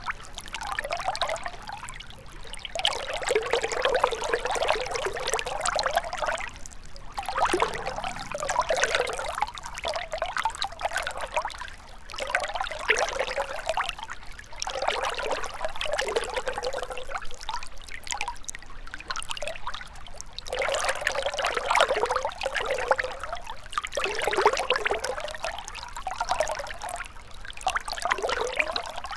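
A gentle river trickling and gurgling over stones, its flow swelling and easing every few seconds.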